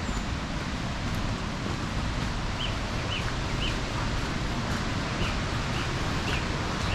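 Steady rushing outdoor background of flowing water and breeze, with a small bird repeating a short, high chirp about half a dozen times through the middle and later part.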